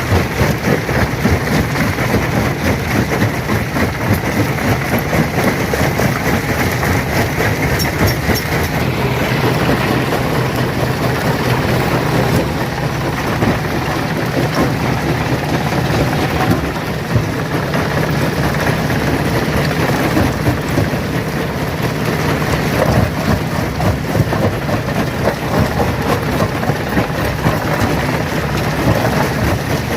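Industrial stone crusher running and crushing rock: a continuous dense clatter and crunch of breaking stones over a steady low machine hum.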